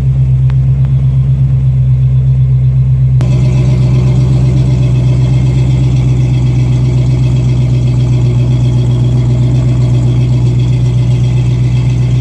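Rebuilt engine of a 1963 Chevy C-10 pickup idling steadily, with an even pulse through headers and an open 3-inch exhaust that has no tailpipes. About three seconds in, the sound gets fuller and brighter.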